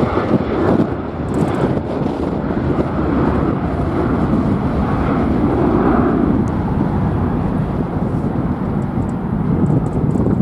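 Jet airliner engines running, heard through strong wind rumbling on the microphone.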